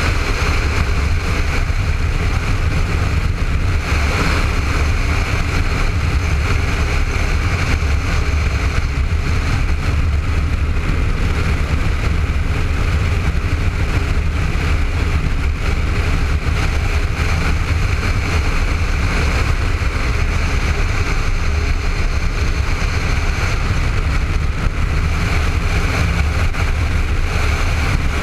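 Honda ST1300 motorcycle's V4 engine running steadily at road speed, with wind and road noise on a helmet-mounted camera.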